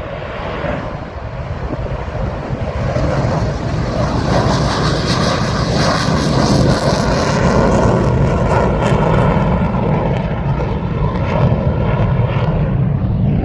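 Departing aircraft's engines growing louder over the first few seconds, then running loud and steady as it passes.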